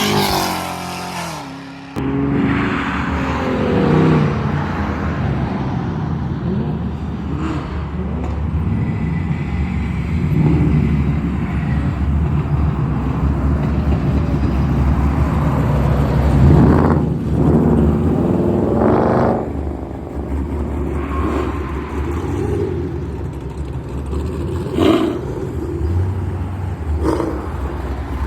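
Car engines at a meet: one car pulling away and fading in the first two seconds, then a steady low idling rumble with engines revved up and down several times, the strongest revs just past the middle.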